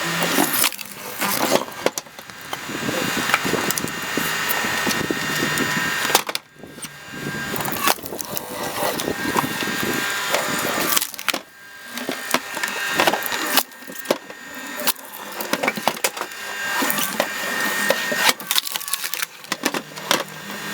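Screw-cone log splitter boring its threaded cone into a log, the wood cracking and splintering as it is forced apart, over the machine's steady running hum. The cracking breaks off briefly twice, about a third and halfway through.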